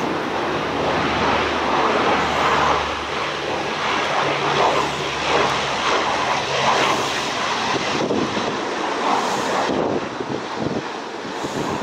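Military aircraft passing low overhead on its landing approach: loud, continuous engine noise that eases off about ten seconds in.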